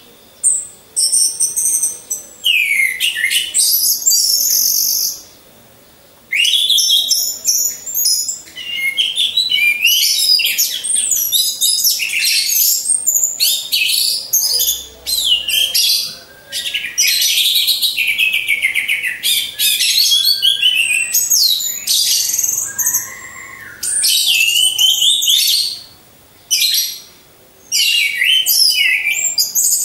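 Orange-headed thrush singing: a long run of rich, varied, rapidly warbled phrases, broken by short pauses about five seconds in and again near the end.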